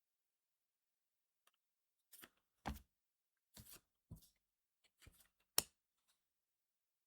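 Trading cards and booster-pack foil being handled: a string of short rustles, slides and taps, starting about one and a half seconds in, with the sharpest tap near the end.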